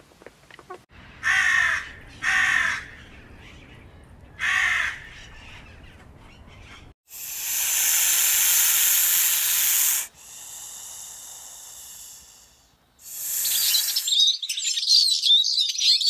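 Three short, harsh bird calls in the first five seconds, then a rattlesnake rattling: a loud, steady, high buzzing hiss for about three seconds, followed by a softer buzz and a brief burst. Near the end, chicks start peeping rapidly.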